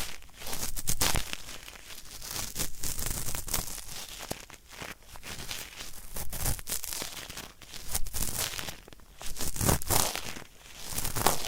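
Cotton swab rubbed hard against a microphone's ear in repeated strokes, making a dry, crackling scratch that stands in for hard earwax being scraped out.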